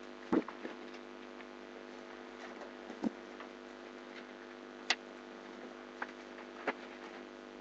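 Steady low hum with about half a dozen sharp clicks and taps scattered through it, the loudest near the start and about five seconds in.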